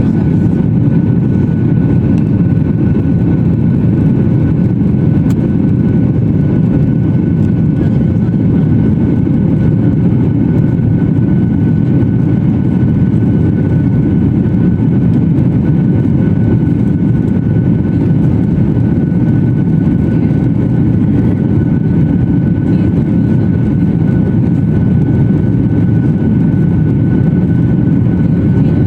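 Airliner engine noise heard inside the passenger cabin: a loud, steady deep rumble with a constant high whine running over it.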